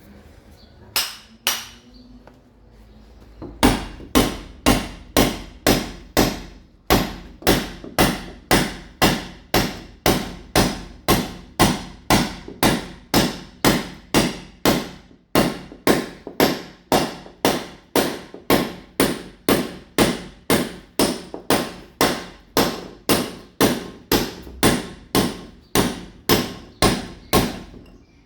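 Mason's hammer chipping a wall, striking in a steady rhythm of about two blows a second: the wall surface is being roughened to take ceramic tile. A couple of single blows come about a second in before the steady hammering starts.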